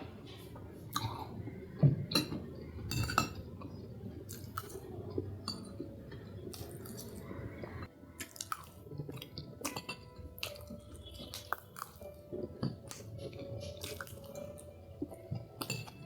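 Close-miked chewing of food, with many small sharp clicks at irregular intervals.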